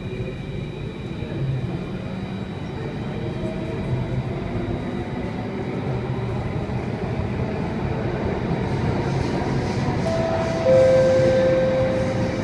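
Interior of an Alstom Metropolis C830 metro train running in a tunnel after leaving a station. Traction motors whine, rising in pitch near the start as the train gathers speed, and the running noise grows steadily louder. About ten seconds in, a strong steady high tone sets in.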